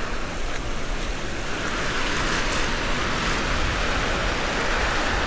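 Gulf surf washing up the beach, with wind rumbling on the microphone; a wave's hiss swells from about a second and a half in.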